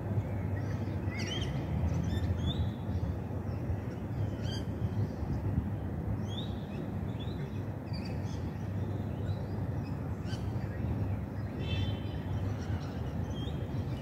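Several small birds chirping, with short scattered calls through the whole stretch, over a steady low rumble of wind on the microphone.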